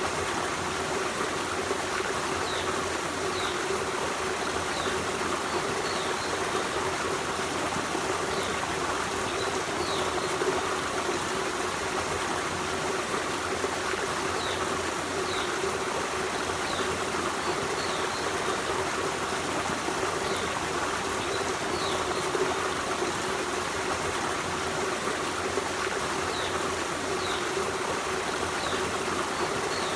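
Forest stream running steadily: a continuous rush and trickle of flowing water over stones. Short, faint high chirps come and go every second or two.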